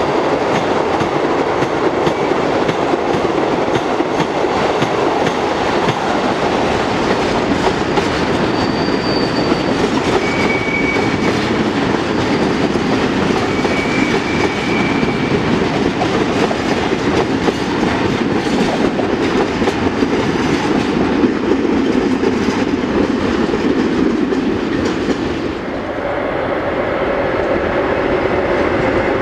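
Freight train wagons rolling past with a steady rumble and the clickety-clack of wheels over the rail joints, and a few brief high squeals from the wheels in the middle. Near the end the wagon noise drops off as the last of the train goes by, and a steady hum takes over.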